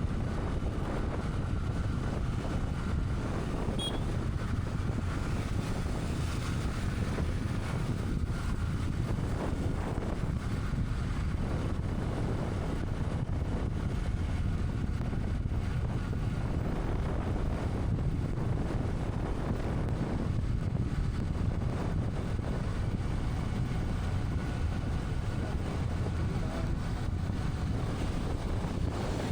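Steady wind rushing over the microphone of a moving motorcycle, with road and engine rumble underneath and no distinct engine tone.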